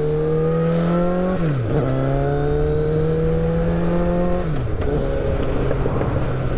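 Motorcycle engine accelerating through the gears: its pitch climbs, drops sharply at an upshift about a second and a half in, climbs again, drops at a second upshift near the five-second mark, then runs at a steady pitch.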